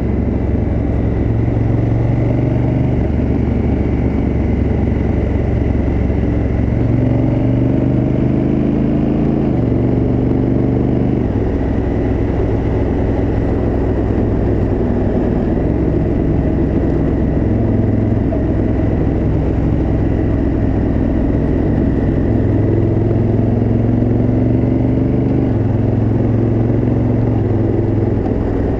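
Honda Africa Twin CRF1000L's parallel-twin engine through its stock exhaust, running under load while being ridden. The note climbs slowly and steps down several times, twice in quick succession about ten seconds in.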